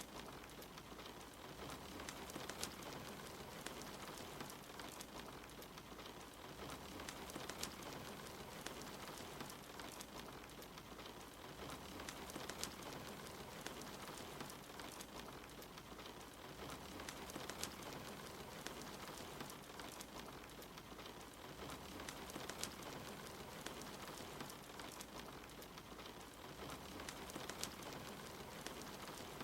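Steady rain patter mixed with a wood fire crackling, with sharp pops from the fire scattered through it.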